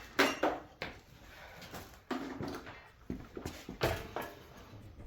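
Scattered sharp clicks and knocks of metal tools and parts being handled during work on a motorcycle engine, about five or six separate hits.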